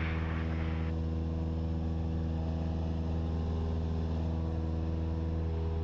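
Cessna 172SP's four-cylinder Lycoming engine and propeller droning steadily in flight, heard inside the cabin, at an even pitch and level.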